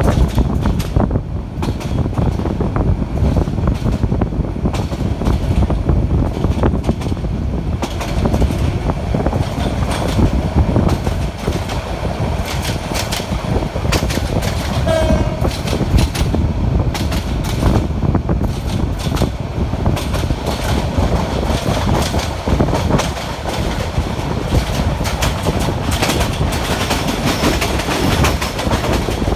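Passenger train running at speed, heard from aboard at an open carriage door: a steady rumble of wheels on rails with clattering over the rail joints. A brief high tone sounds about halfway through.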